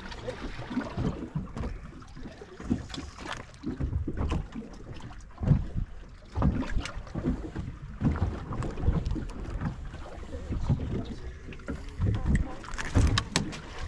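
Choppy water slapping against the hull of a small 17-foot Key West boat, with irregular knocks and wind buffeting the microphone.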